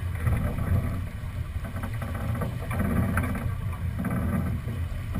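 Wind buffeting a GoPro's microphone over the rush of water along a sailboat's hull under way: a steady, low, uneven rumble.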